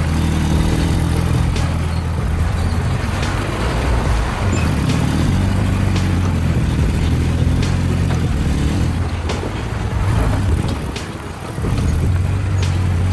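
A heavy truck's engine running steadily with a low hum, dipping briefly about eleven seconds in before picking up again.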